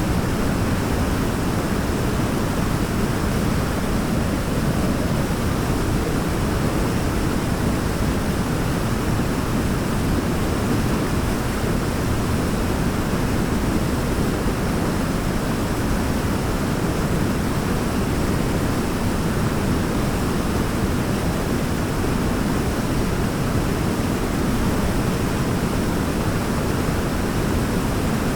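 Waterfall: water falling in a steady, even rush, heaviest in the low end, with no other sound standing out.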